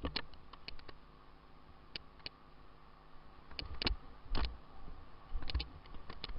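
Scattered sharp clicks and knocks at an uneven pace, a few of them heavier thumps in the middle of the stretch.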